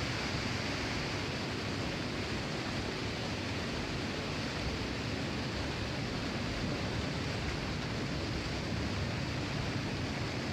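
Steady rushing noise of a debris flow, a moving river of stones sliding down a channel.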